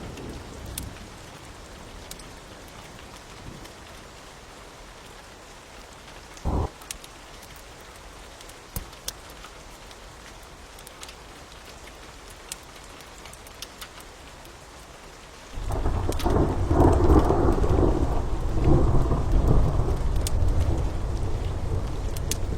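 Steady rain with scattered faint crackles and a single short knock about six seconds in; about fifteen seconds in a long, low rumble of thunder sets in and rolls on, much louder than the rain.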